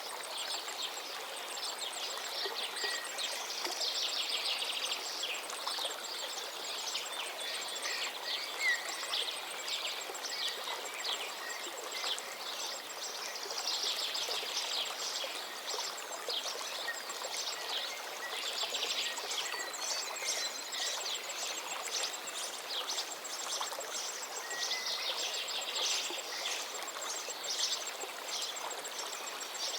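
River water flowing steadily, with songbirds singing over it in quick trills and chirps throughout.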